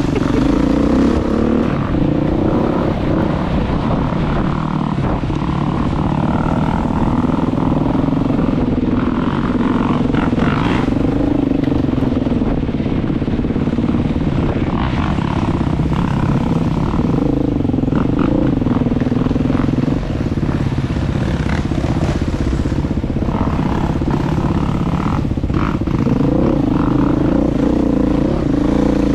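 Single-track motorbike engine running while riding, its pitch rising and falling with the throttle, over a low wind rumble on the microphone. There are a few brief clattering clicks.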